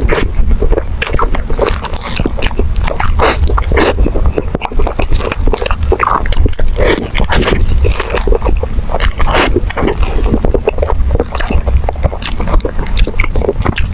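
A person chewing and smacking food close to the microphone: a dense, irregular run of wet mouth clicks and smacks, over a steady low rumble.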